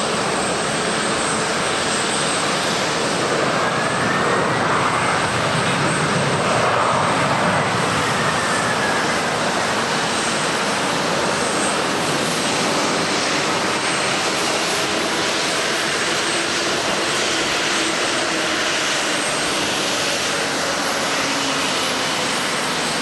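Twin-engine Boeing 767-300ER jet airliner landing: steady, loud jet engine noise, with a faint whine that rises and then falls a few seconds in.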